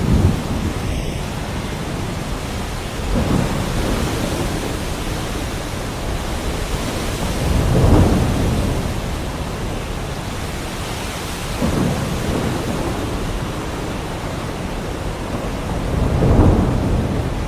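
Heavy rain falling steadily, with five low rolls of thunder swelling up and fading away through it.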